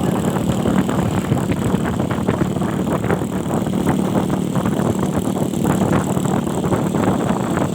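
Yamaha Jupiter 130cc motorcycle engine running steadily while being tuned, with irregular sharp pops from the exhaust. The engine is described as worn out.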